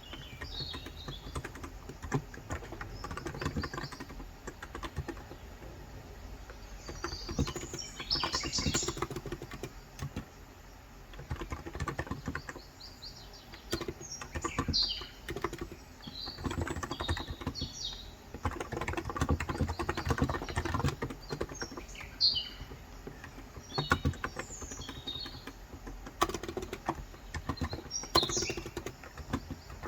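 Typing on a COX Endeavour electro-capacitive (non-contact) 35 g tenkeyless keyboard: bursts of soft keystrokes with brief pauses. Birds chirp in the background every few seconds.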